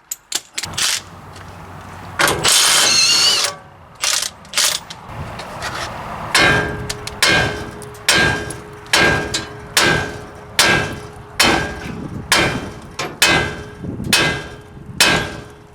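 Hammer blows on steel, driving at a seized kingpin in a medium-duty truck's front axle: a steady run of ringing metallic strikes, about one and a half a second, starting about six seconds in. Before that come a few scattered knocks and a short hissing burst with a squeal.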